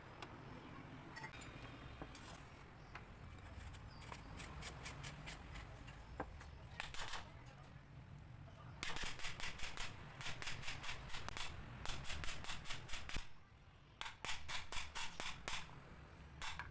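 A rapid series of sharp clicks, several a second, in two runs of about four seconds each, after a few seconds of faint background noise.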